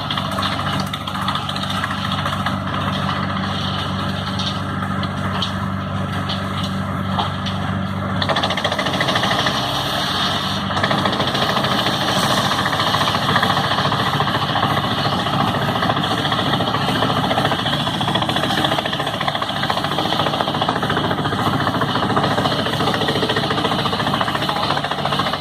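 Truck-mounted wood chipper running: an engine holds a steady note, then about eight seconds in the sound turns louder and rougher and stays that way.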